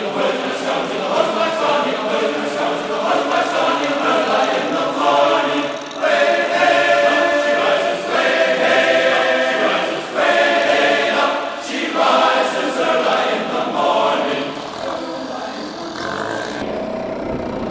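A choir singing long held notes, in phrases a few seconds long with short breaks between them.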